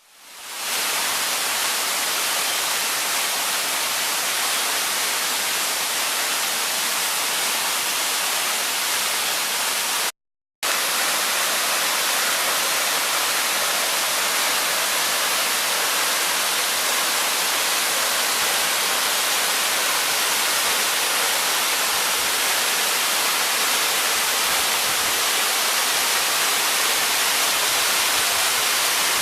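Waterfall pouring, a steady rushing hiss that fades in at the start and cuts out for a moment about ten seconds in.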